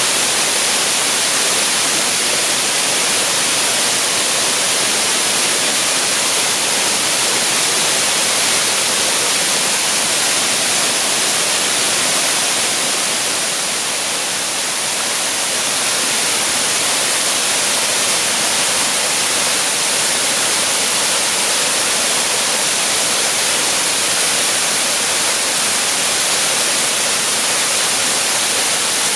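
Waterfall pouring out of a cave, a steady, dense rushing hiss of falling water that dips slightly about halfway through.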